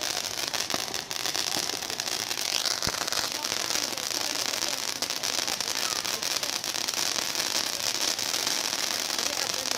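Bonfire crackling and hissing steadily, with a dense run of small sharp pops and snaps.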